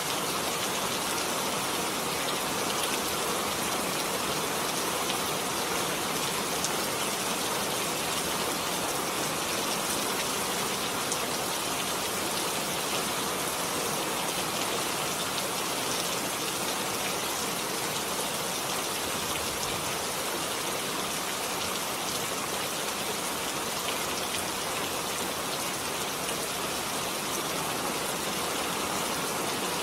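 Heavy rain falling steadily, an even hiss of countless drops with faint scattered patters on a surface.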